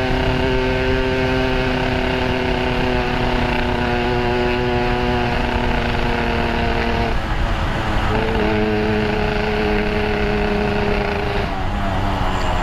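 Yamaha RX-King two-stroke single-cylinder motorcycle engine with a Boban C33 aftermarket exhaust, running at steady revs on the move. About seven seconds in the engine note breaks off, then holds at a new steady pitch until just before the end.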